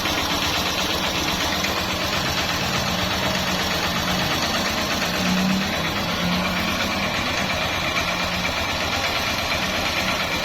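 Honda CB125's small single-cylinder four-stroke engine idling steadily, with a fast even putter. Its air suction valve has just been put back to the stock setup.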